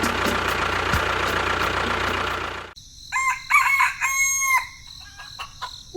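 A steady rushing noise that cuts off suddenly about halfway through, followed by a rooster crowing, with one long held call near the end.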